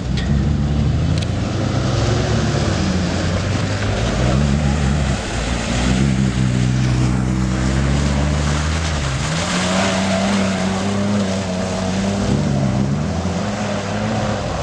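Off-road SUV engine revving hard as it drives through deep mud, the engine note rising and falling repeatedly as the throttle is worked.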